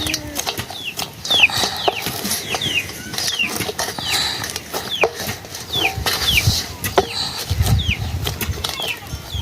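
Chicks peeping over and over in short, falling notes, about two a second, with scattered sharp clicks and knocks and a brief low rumble near the end.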